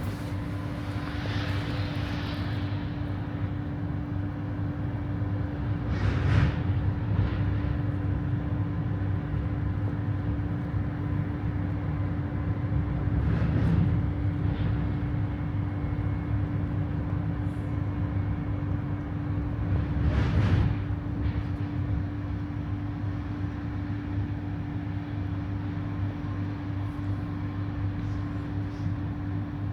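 Electric regional train running along the line: a steady low rumble of wheels on rails under a constant hum. Three brief louder swells spread through it.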